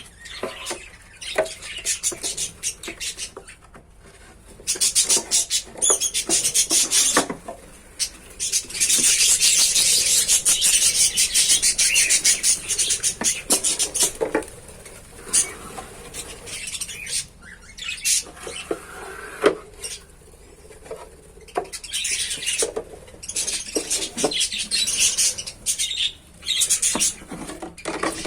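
Lovebirds chattering: rapid, high-pitched chirps and squeaks coming in bursts, with one long unbroken spell of chatter in the middle.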